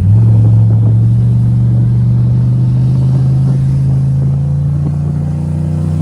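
Turbocharged Chevy Silverado engine accelerating under load: its pitch steps up right at the start, then climbs slowly and steadily as it pulls.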